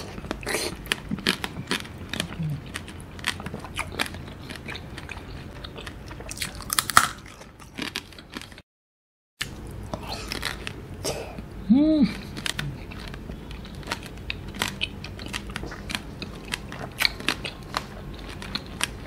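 Close-up biting and chewing of candied mandarin orange segments (tanghulu): the hard sugar shell cracks and crunches between the teeth in quick irregular crackles, mixed with wet chewing of the juicy fruit.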